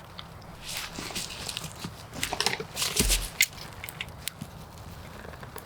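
Dog chewing and gnawing on a stick: a run of wet crunches and sharp snaps, densest in the middle, with a dull thump about three seconds in.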